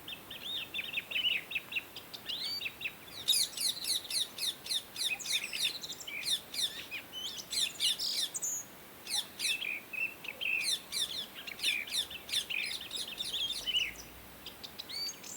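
Indian ringneck parakeets chirping: a quick, busy run of short, high, falling chirps that grows denser and louder about three seconds in.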